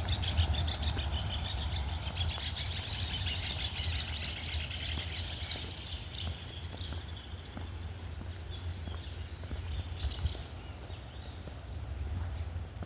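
Small songbirds chirping: a dense run of quick high notes for the first half, thinning to scattered chirps later, over a steady low rumble.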